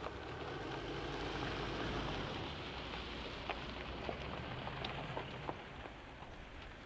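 A distant train approaching on an electrified line: a low steady rumble under a soft even hiss, with scattered light ticks in the second half.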